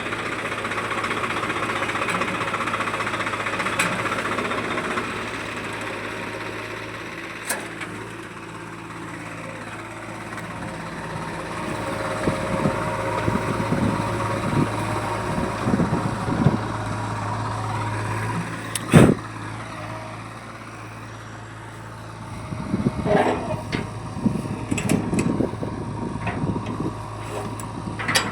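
The engine of a heavy farm or construction machine running steadily, with one loud bang about two-thirds of the way through and a run of clattering knocks near the end.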